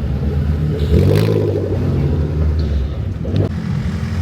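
A car engine running with a low rumble, its pitch shifting slightly as it revs a little, then settling.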